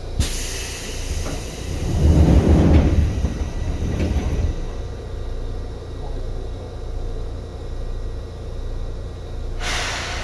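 Inside a Seibu 2000 series electric commuter train: a sharp clunk at the start, then a loud low rumble that swells and fades over about two seconds, steady running noise, and a burst of hiss near the end.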